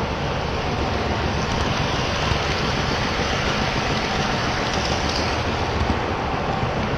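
HO scale model train running along the track: a steady, even noise of small wheels rolling on the rails.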